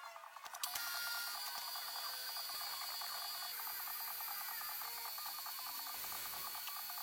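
Rapid, steady mechanical clicking with a hiss behind it, starting sharply just under a second in.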